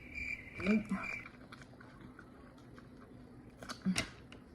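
A cricket chirping in an even rhythm, about two or three chirps a second, stops a little over a second in. Over it comes a short hum-like vocal sound from a person; after that there are faint mouth and chewing noises, small clicks, and a brief vocal sound near the end.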